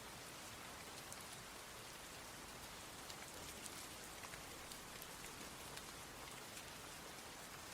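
Steady rain falling, a continuous hiss with individual drops ticking here and there.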